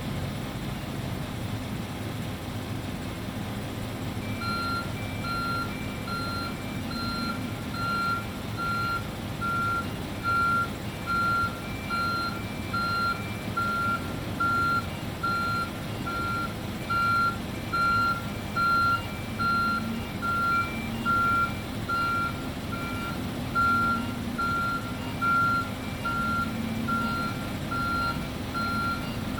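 Refuse lorry's reversing alarm beeping steadily, about one beep every 0.8 seconds, starting a few seconds in over the engine running underneath: the lorry is backing up.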